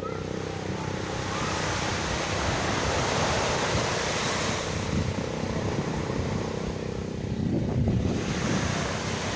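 Sea surf washing in, with wind on the microphone. The rush of water swells from about a second in and again near the end.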